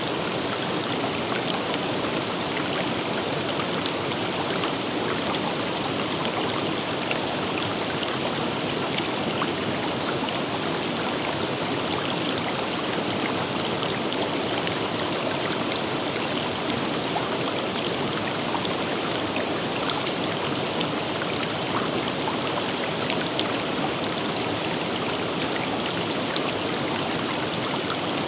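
River running over rocks: a steady rush and babble of flowing water. A high, rapidly pulsing trill joins a few seconds in and carries on over the water.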